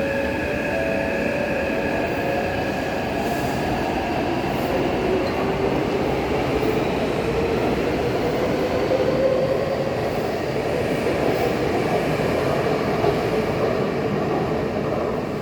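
Taipei Metro C381 subway train running, a steady rail rumble with a whine that rises in pitch from about four seconds in as the train accelerates.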